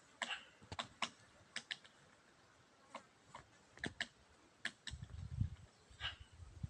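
Woodpecker pecking at a tree: about a dozen sharp single taps at an uneven pace, with a low rumble about five seconds in.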